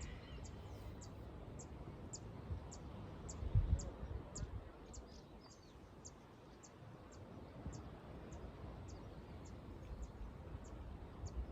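A short high chirp repeated evenly, about twice a second, from a bird or insect outdoors, over low wind rumble on the microphone that gusts briefly about three and a half seconds in.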